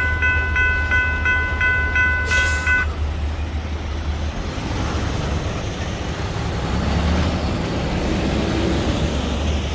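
A railroad warning bell rings steadily in quick repeated strokes over the low rumble of the departing EMD SD40-2 diesel locomotives. The bell stops about three seconds in, and the train's rolling noise then swells and fades.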